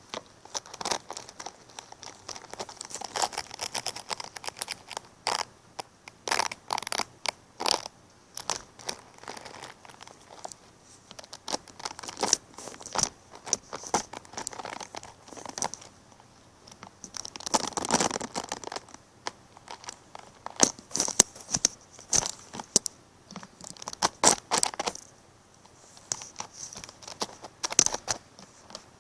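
Irregular crinkling and crackling, in dense clusters of sharp crackles with short lulls between them.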